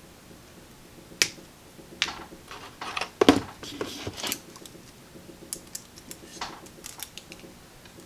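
Small hand tools clicking and snipping on a wire lead as it is cut and worked onto a tube-socket pin. The sharp clicks come irregularly, the loudest around three seconds in, with lighter ticks afterward.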